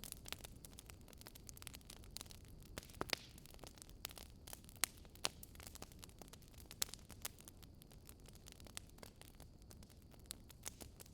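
Wood fire crackling softly: irregular small pops and snaps over a low steady hiss.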